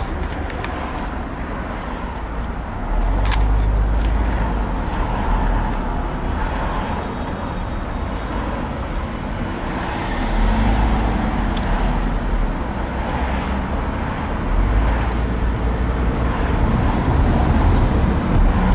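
Road and engine noise heard inside a moving car's cabin, steady, with a deep rumble swelling up three times.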